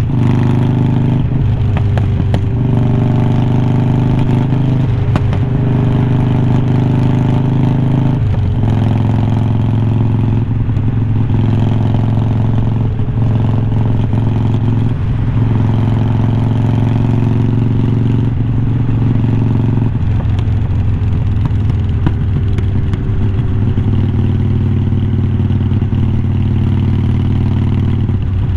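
Harley-Davidson Iron 1200's V-twin engine running under way through aftermarket glass-pack style slip-on mufflers. The exhaust note holds mostly steady, with several brief breaks where the throttle comes off or the pitch shifts before settling again.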